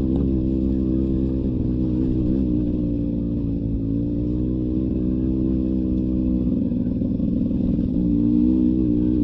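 Two-stroke engine of a Beta 300 RR enduro motorcycle running at low, slightly varying throttle, with a rougher, choppier stretch about two-thirds of the way in.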